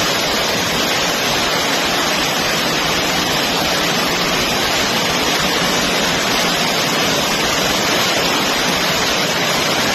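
Steady, even rush of water with no change in level, such as a torrent of floodwater.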